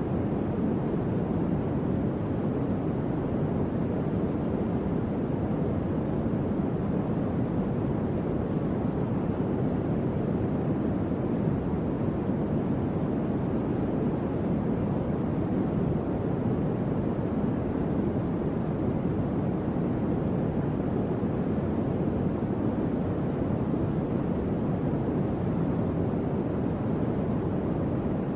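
Electric fan running steadily: an even, low whooshing rush of moving air with no changes in speed.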